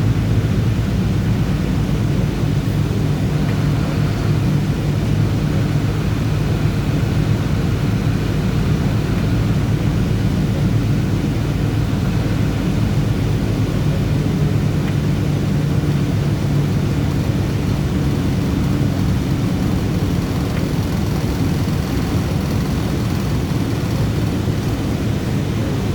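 Bus engine running with steady road noise from the driver's seat while driving, a continuous low drone.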